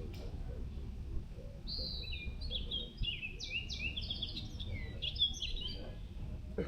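A songbird singing a rapid, jumbled song of short high notes, starting about two seconds in and lasting about four seconds, over a steady low rumble.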